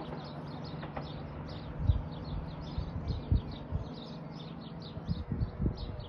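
Birds chirping in quick, high, falling notes, about three a second, over the steady low hum of a distant diesel train, with irregular low thumps on the microphone.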